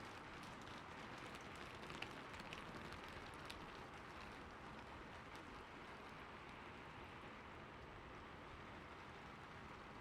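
Soft, steady rainfall ambience, with a few sharper drop ticks about two to three and a half seconds in.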